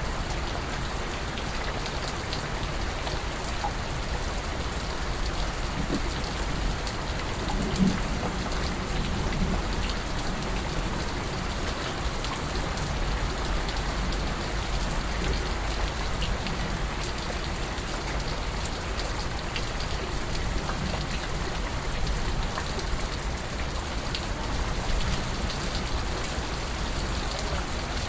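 Steady rain falling on a surface, with scattered separate drips ticking through it. One slightly louder knock comes about eight seconds in.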